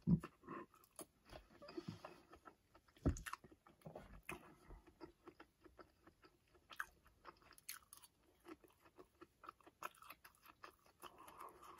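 A person chewing and biting a mouthful of food close to the microphone: many small wet clicks and crunches, with one louder thump about three seconds in.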